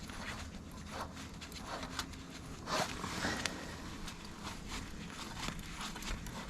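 Scattered clicks and scrapes of a metal hand tool being handled and turned on an exhaust stud, with one sharper knock about three seconds in, over a steady low hum.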